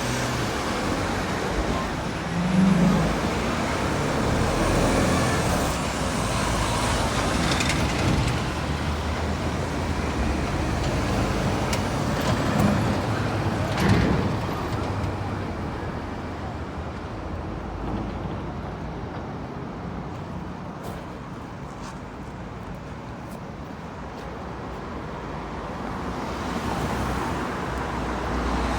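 Road traffic passing, with buses, cars and a truck going by in a continuous rush of engine and tyre noise. It swells with a few louder passes early on, quietens for a few seconds in the second half, then builds again near the end as more vehicles approach.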